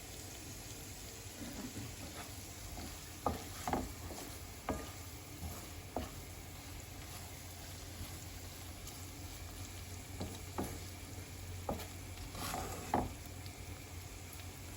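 Ginger, green chilies and garlic frying in hot ghee and oil, a steady low sizzle, while a spoon stirs the pan and knocks or scrapes against it a few times.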